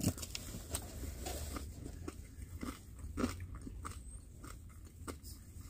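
A person chewing and biting food close to the microphone, with scattered soft crunches and wet mouth clicks.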